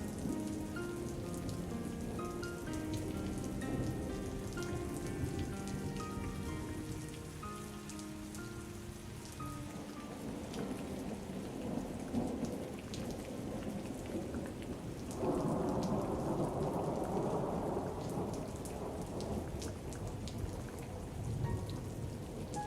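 Steady heavy rain with fine drop pattering, under a slow, soft melody of single notes that fades out before the middle. About two-thirds through, a roll of thunder starts suddenly and rumbles for a few seconds before easing back into the rain.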